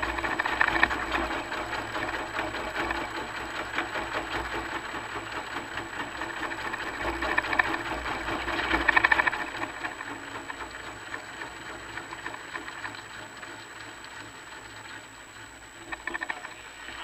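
Car engine running with a fast, rhythmic note as the car drives slowly. It swells under throttle about a second in and again around eight to nine seconds in, then drops back to a quieter, lighter note, with a short rise near the end.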